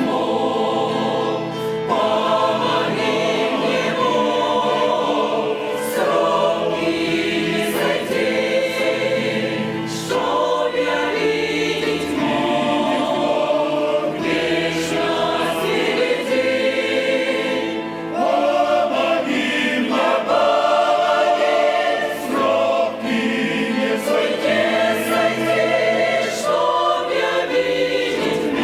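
Church choir singing a Russian-language hymn in long, sustained phrases, over a steady bass line.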